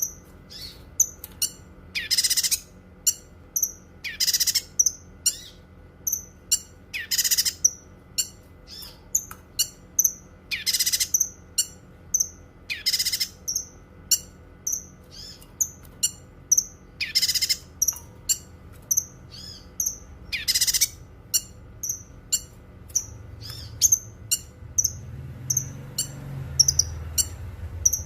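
Cucak kinoi singing: a run of quick high chirps broken every few seconds by a longer, louder phrase. The loud phrases stop about three-quarters of the way through, leaving only the chirps over a low rumble.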